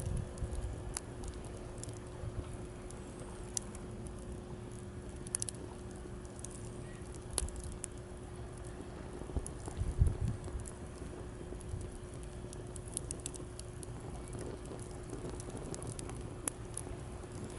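Wood campfire crackling, with irregular sharp pops and snaps over a steady low rumble of surf. A stronger low thump comes about ten seconds in.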